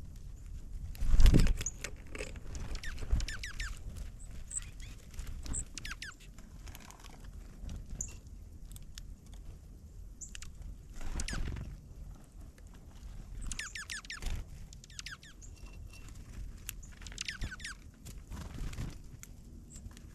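Small songbirds chirping in short, quick calls that come in clusters, over scattered taps and patter. A louder thump comes about a second in and another around eleven seconds.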